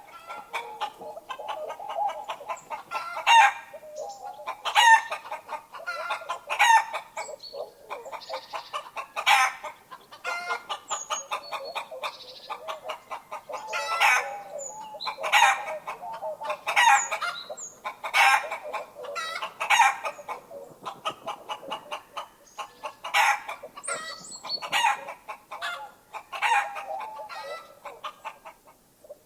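Chickens clucking in a constant chatter, with louder short calls every second or two.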